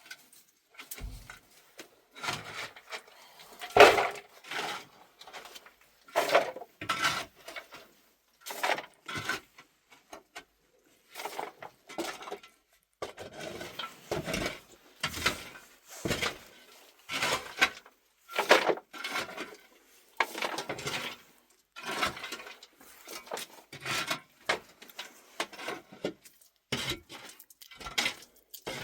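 Pots, dishes and utensils clattering and knocking as they are handled, in a long string of separate knocks, some ringing briefly.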